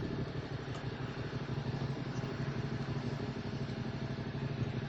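QJ Motor SVT650X motorcycle engine idling steadily through an Arrow Racetech slip-on exhaust.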